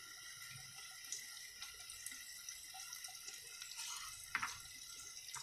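Chopped onions and green chillies sizzling in hot oil in a frying pan: a steady hiss with many small crackles, and one short knock about four seconds in.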